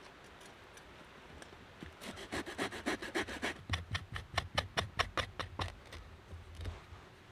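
Wood being cut with a hand saw: a run of quick back-and-forth strokes, about five a second, starting about two seconds in and dying away about a second before the end.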